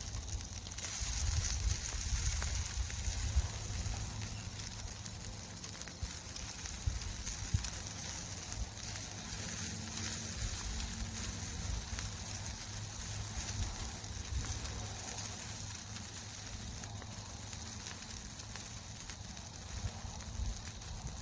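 An egg frying on a hot plate set straight on a campfire: a steady high sizzle that picks up about a second in, over a low rumble.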